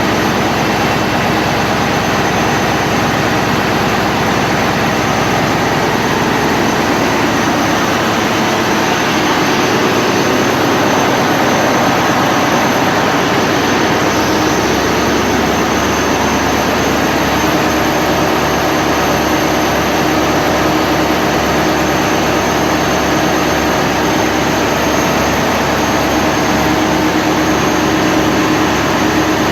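Mitsubishi S8U-C2 MPTK marine diesel engine running steadily after periodic maintenance, a loud, dense machinery noise with a steady low hum. About halfway through the low tones shift slightly and then hold steady again.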